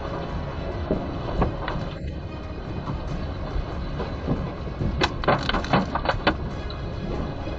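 Steady low rumbling with rattling and knocking from a car shaken by a strong earthquake, the rattling bunching into a rapid run of sharp knocks about five to six seconds in.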